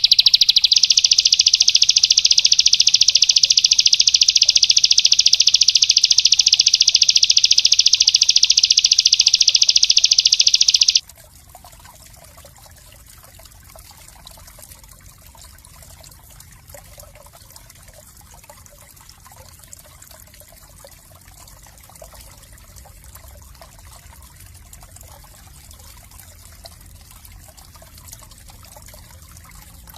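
Small songbird delivering a long, loud, very fast high-pitched trill, a tight rapid-fire burst held for about eleven seconds, that cuts off suddenly. After it only a faint trickle of running water remains.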